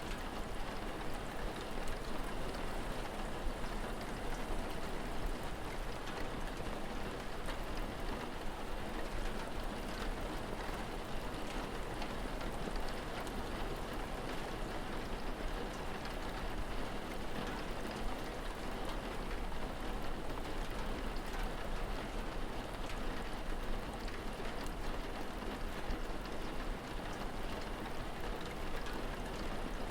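Steady rain, a constant hiss dotted with many small drop ticks, over a low steady rumble.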